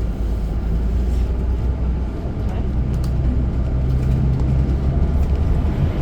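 City bus driving, heard from inside the passenger cabin: a steady low rumble of engine and road noise.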